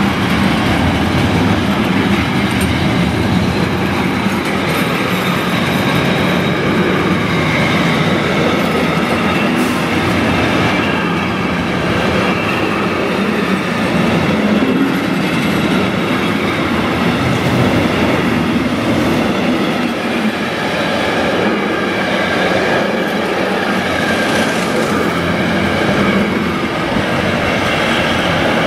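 Container freight train wagons rolling past close by, a continuous loud rumble and clatter of steel wheels on the rails, with a faint thin wheel squeal over it.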